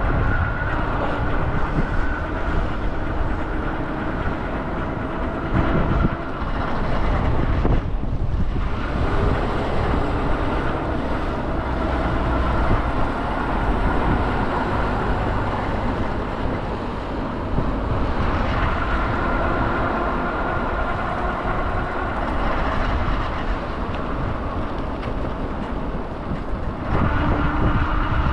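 Steady, loud outdoor rumble and hiss of vehicle noise, with faint steady hums, dipping briefly about eight seconds in.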